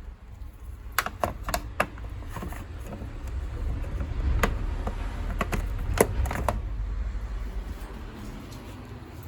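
Scattered clicks and knocks of a countertop mini dishwasher being handled and set up, over a low rumble.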